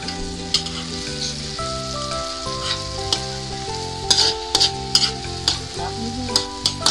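Chopped tomatoes, onion and garlic sizzling in hot oil in a wok while a metal spoon stirs and scrapes them, with frequent sharp clinks of metal on the wok, thickest around the middle.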